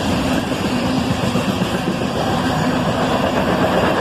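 A CSX freight train rolling past at speed, a steady noise of wheels on the rails.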